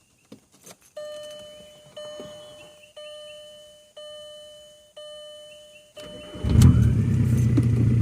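A car's warning chime sounds five times, about once a second, then the 2000 VW Jetta TDI's 1.9-litre four-cylinder turbo-diesel cranks and starts about six seconds in and settles into a steady, loud idle through a straight-piped exhaust.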